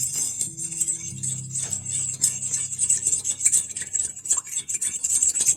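A utensil stirring a small oil-and-vinegar dressing in a bowl, making rapid repeated clicks against the bowl, with background music underneath.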